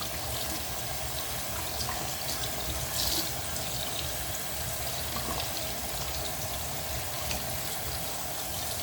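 Tap water running steadily into a sink while soapy hands are rinsed under it, with small splashes.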